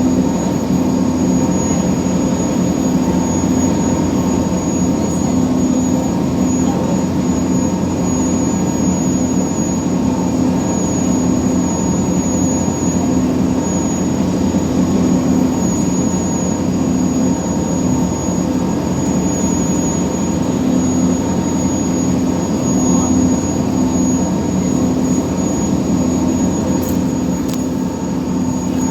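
Ferry's Scania marine diesel engine running steadily: a loud, even drone with a thin high whine above it.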